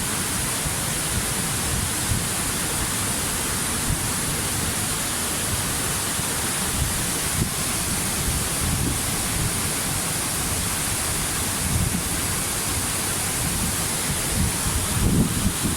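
Waterfall rushing steadily, a dense even hiss of falling water, with a few louder low rumbling swells near the end.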